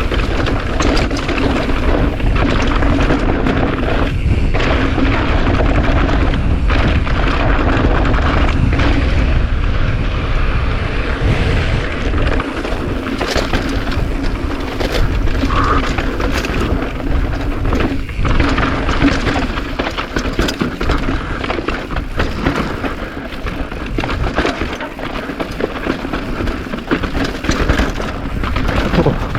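Downhill mountain bike descending a rough dirt trail at speed: heavy wind buffeting on the microphone with a continuous low rumble, and many sharp knocks and rattles as the tires and bike hit rocks and bumps.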